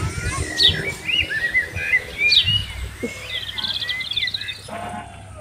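Several birds chirping, with quick falling notes and a rapid trill about three and a half seconds in.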